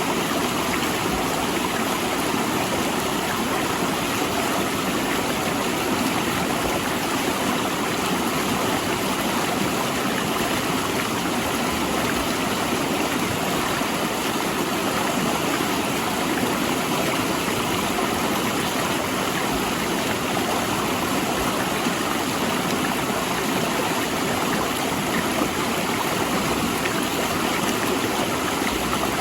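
River water rushing and splashing steadily over and between large rocks, a constant full rushing noise.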